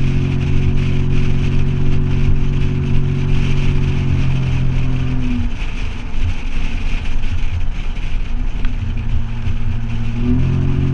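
Toyota 4Runner engine through a Flowmaster 40 series exhaust, held at a steady engine speed with a deep, even drone. The drone eases off about five seconds in and comes back near the end.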